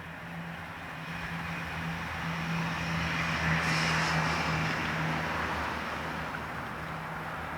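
A motor running steadily with a low hum, under a rushing noise that swells to a peak about halfway through and then fades, like a vehicle passing.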